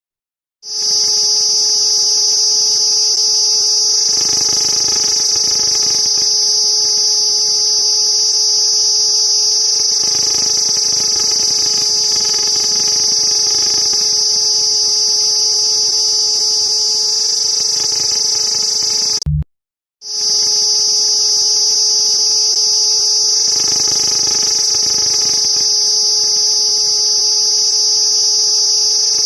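Cicada's steady, high-pitched buzz, unbroken except for a short cut-out about 19 seconds in, after which it starts again.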